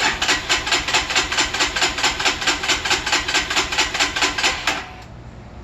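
Lifan KPR 200 motorcycle's electric starter cranking the engine in a steady rapid chug for almost five seconds without it catching, then stopping. It is a no-start that the owner puts down to the fuel system still being bone dry.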